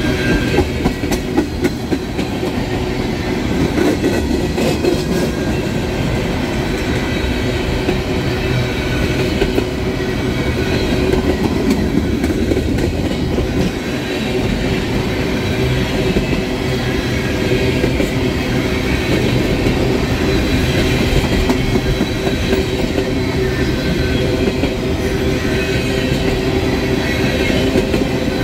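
Freight train tank cars rolling past close by: a steady rumble and rattle of steel wheels on the rails, with sharp wheel clicks over the rail joints, most distinct in the first couple of seconds.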